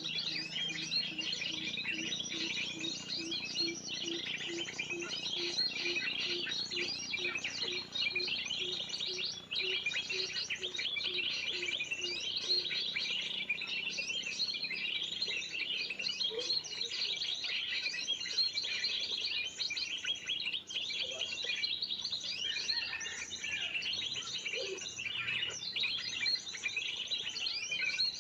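Many small birds chirping and twittering at once in a dense, busy chorus: a 'ribut' bird lure call used to draw in spiderhunters. Under it, for the first half, a faint low pulsing note repeats about twice a second, then stops.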